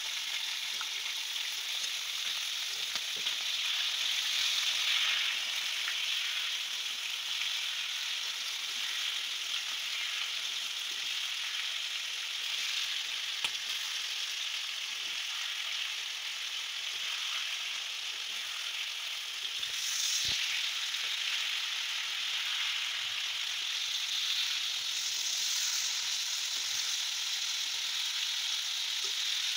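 Marinated goat liver pieces frying in hot ghee on a flat iron tawa: a steady sizzling hiss with small crackles, swelling briefly a few times as a slotted metal spatula stirs and scrapes the pieces.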